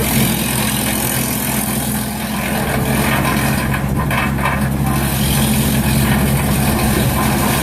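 Tractor engine running steadily, driving a BX42S PTO wood chipper, with a steady low hum and machine noise throughout.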